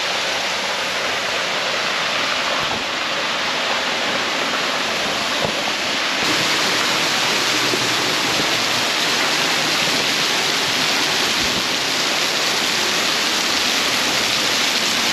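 Waterfall: a loud, steady rush of falling water that grows a little louder about six seconds in.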